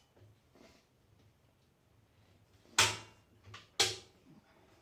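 Two sharp knocks about a second apart, with a lighter click between them, from handling the mounting hardware while bolting a stabilizer foot onto a portable generator's frame.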